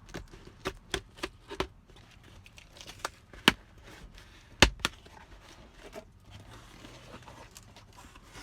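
Shipping box packaging being handled and pulled apart to get at the cold pack: crinkling and tearing, with a quick run of sharp clicks and taps near the start and a few louder snaps around the middle.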